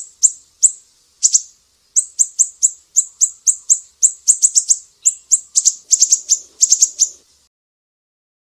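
Sumatran siri-siri songbird singing a rapid series of sharp, high chirps, about three or four a second, that come closer together near the end and stop about seven seconds in.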